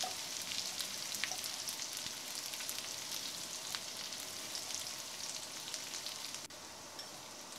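Chopped ginger and garlic frying in hot oil in a frying pan with curry leaves and chilies: a steady sizzle with scattered small pops, a little quieter for the last second or so.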